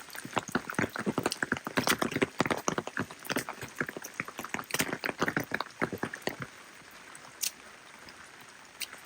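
Rain falling: a dense, irregular patter of drops that thins out about six seconds in to a steady hiss with only a few single drips.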